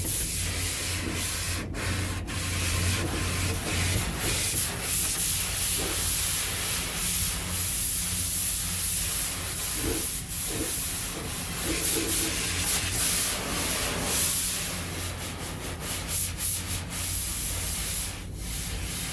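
High-pressure water spray from an attendant's hand wand blasting dirt off a van's body, a steady hiss that swells and dips as the jet moves, over a low steady hum.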